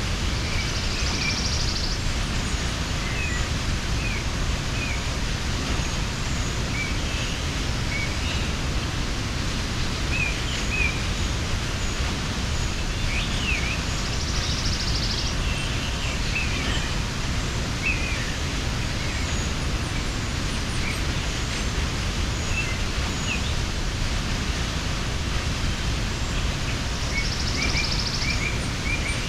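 Mountain waterfall rushing steadily, with small birds chirping here and there over it and a short high trill three times.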